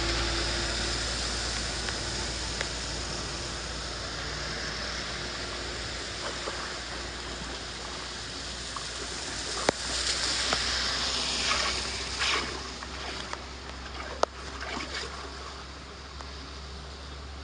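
Water rushing and splashing steadily, with a few sharp knocks and splashes in the second half.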